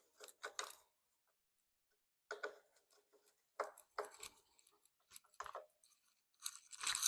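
Intermittent handling noises: short bursts of rustling, crinkling and light clicking as parts are handled at the handlebar, the busiest burst near the end.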